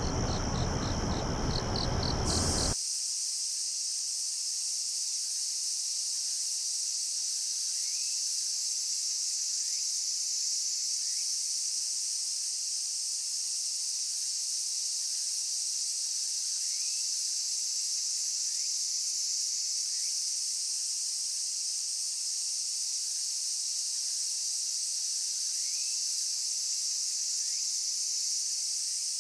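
Chorus of crickets and other night insects trilling in a steady, dense, high-pitched wall of sound, with a few faint short rising chirps now and then. For the first two and a half seconds a rhythmic pulsed chirp sounds over a low rushing noise, then cuts off suddenly.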